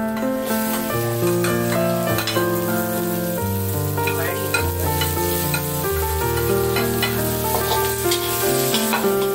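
Garlic sizzling in hot oil in a wok, the sizzle picking up about half a second in as sliced onions go in, with a metal spatula clinking and scraping as it stirs. Piano-like background music plays throughout.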